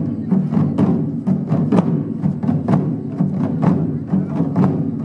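Japanese taiko drum ensemble playing a steady run of strikes, about three a second, with the deep drums ringing on underneath.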